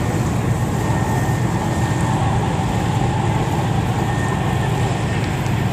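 Steady low drone of a passenger ferry underway: the engines' rumble mixed with the rush of water and wind.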